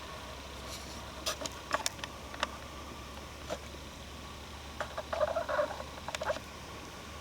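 Footsteps on the forest floor, snapping twigs and crackling dry leaves. There are a few scattered sharp snaps, then a denser run of crackling about five seconds in.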